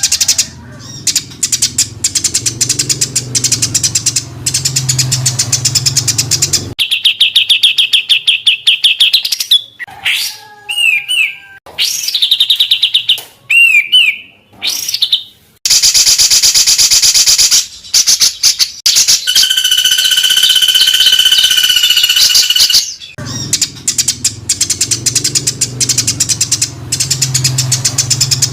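Recorded songbird song spliced together in sequence. First come dense, rapid-fire chattering notes over a low hum, then a fast trill and looping whistled glides. A loud harsh rattle with a steady high whistled note follows, and the rapid chatter over the hum comes back near the end.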